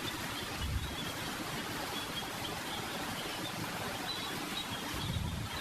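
Steady background hiss with a faint, broken high chirping, and two soft low thumps, one near the start and one near the end.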